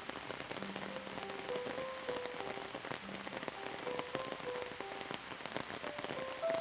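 Steady rain falling, with many separate drops pattering. A soft, slow melody of single held notes at changing pitches plays over it.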